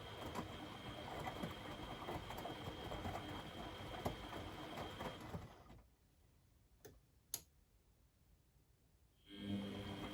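Beko WMD 46160 washing machine turning its drum during the wash, with a steady motor whine and laundry tumbling and splashing. About halfway through the drum stops, two clicks sound in the pause, and near the end it starts turning again, the usual stop-and-reverse rhythm of a wash phase.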